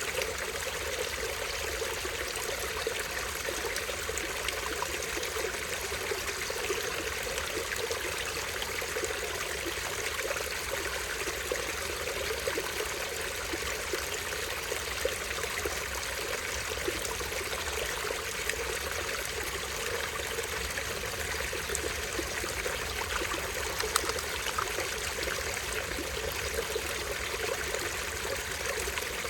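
Small stream running and trickling, a steady, unbroken splash of falling water.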